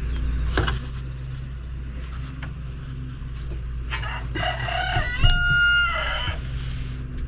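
A rooster crowing once, a single call of about two seconds that starts about four seconds in and holds a steady pitch through its middle.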